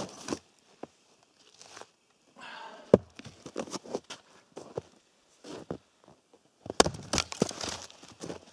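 Irregular knocks and clicks with crinkly rustling: one sharp knock about three seconds in, and a busier run of rustles and knocks near the end.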